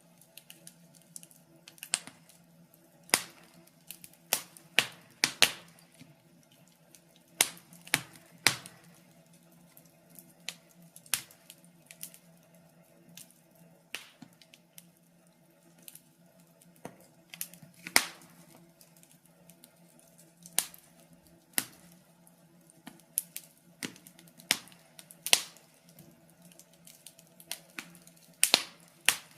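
Wood fire crackling in a fireplace: irregular sharp pops and snaps, a few of them much louder than the rest, over a faint steady low hum.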